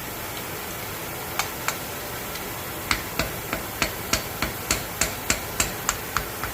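Light metal taps knocking slag off a torch-melted bolt head: two at first, then a regular run of about three a second, over the steady hiss of the running torch.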